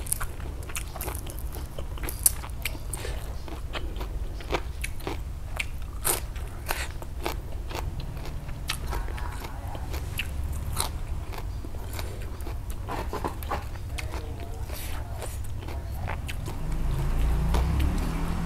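Close-miked chewing of raw leafy greens and flower stems, with many sharp, irregular crunches.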